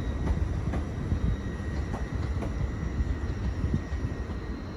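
Train running at a station: a steady low rumble with a thin, steady high whine over it and a few faint clicks.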